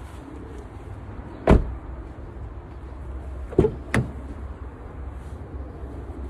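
Toyota Corolla Cross car doors shutting: three thuds, one about a second and a half in, then two in quick succession near the middle, over a steady low rumble.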